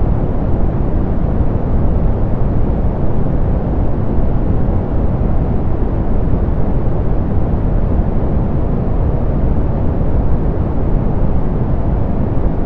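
Steady synthetic pink noise, softened so that it is deep and rumbling with little hiss, unchanging throughout.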